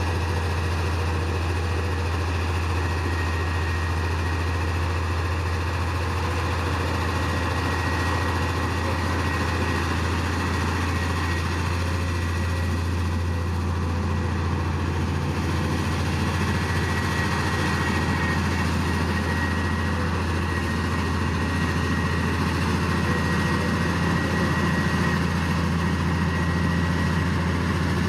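Heavy diesel earthmoving machine engine running steadily under a constant low drone, with a faint steady high whine above it.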